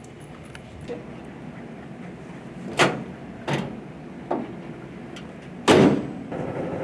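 A series of door bangs: a light one, then four sharp bangs spread over about three seconds, the last the loudest. A steady low hum starts just before the end.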